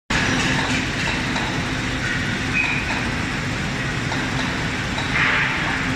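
Robotic arc welding on fan impeller blades: the welding arc gives a steady, even noise, with a faint low hum under it.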